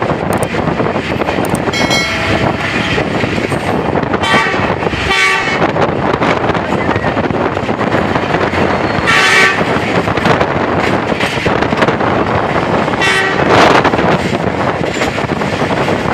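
Passenger train running, heard from on board: a loud, steady rolling noise broken about six times by short high-pitched sounds, each under a second.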